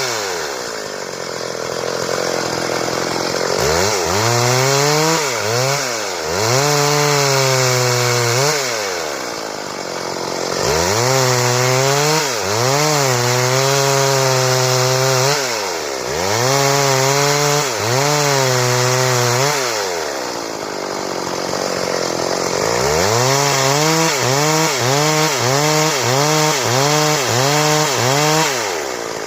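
Stihl two-stroke chainsaw sawing boards: the engine revs up to full throttle, its pitch sagging and wavering as the chain cuts into the wood, then drops back to idle twice between cuts. Near the end the pitch rises and falls rapidly, about one and a half times a second.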